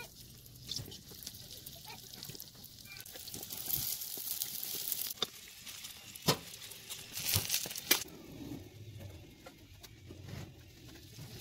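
Bolani frying in shallow oil in an aluminium pot, a steady sizzle. Sharp clicks and scrapes from a metal fork and ladle against the pot as the pieces are turned and lifted out, the loudest about 8 seconds in.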